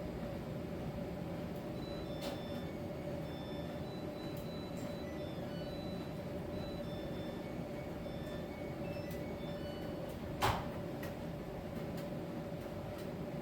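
Miele T1 heat-pump tumble dryer running in its drying phase: a steady hum with a steady tone, a few faint ticks, and one sharp knock about ten seconds in.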